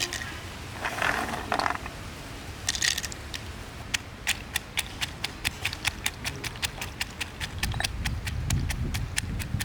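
Fried cashews being crushed coarsely: a regular run of sharp, hard clicks, about three a second, from about four seconds in, after a few scattered knocks.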